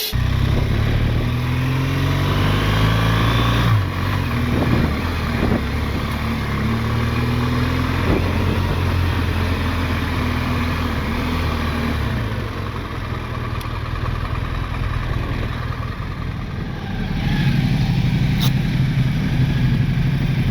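BMW GS motorcycle engine running under way, its pitch climbing as it accelerates and dropping suddenly with a gear change about four seconds in. Near the end the engine note steadies and gets louder, with one sharp click.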